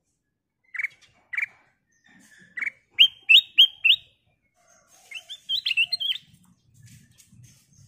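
Black-crested bulbul calling: a few separate short whistled notes, then a quick run of four rising notes about three seconds in, and a busier chattering phrase a couple of seconds later.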